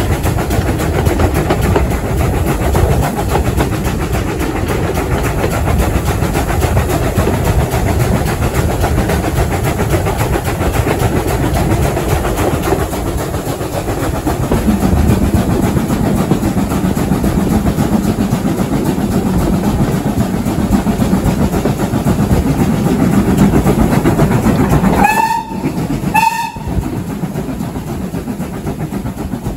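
Heritage railway carriage running along the track, its wheels rumbling and clattering, heard from an open carriage window. About 25 seconds in, the locomotive gives two short whistle blasts about a second apart, after which the running noise is a little quieter.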